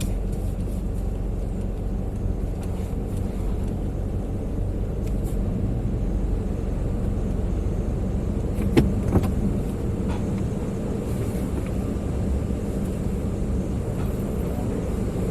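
Car running, heard from inside the cabin through a dash camera's microphone: a steady low engine and road rumble. A single sharp click comes about nine seconds in.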